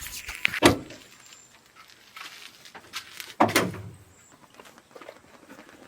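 Handling noises: a few sharp clicks and knocks in the first second, then one heavier thump about three and a half seconds in.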